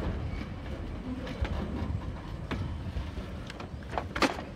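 TasRail container flat wagons rolling past while shunting: a steady low rumble of wheels on rail with scattered clicks and clanks, the loudest a pair of sharp knocks near the end.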